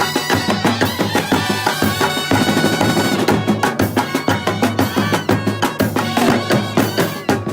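Kerala festival brass band playing: horns hold a tune over fast, steady drumming.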